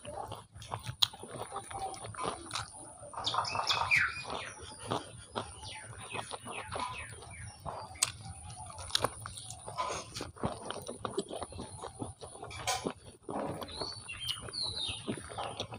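Close-miked chewing and lip-smacking of a mouthful of biryani rice and fried egg eaten by hand, with many sharp wet mouth clicks. A high-pitched gliding sound comes twice, a few seconds in and near the end.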